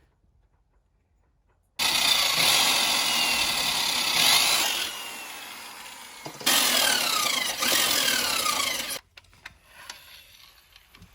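A power tool cutting into the van floor for the heater's intake and exhaust vent, in two loud runs of a few seconds each, its pitch sliding down as it bites.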